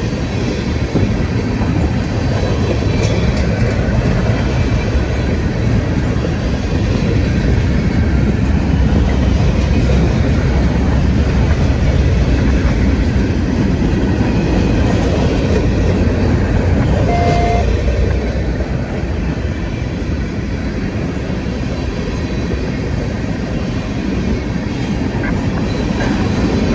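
Freight train cars rolling past, a steady heavy rumble with the clack of wheels over rail joints, and a brief short tone about two-thirds of the way through.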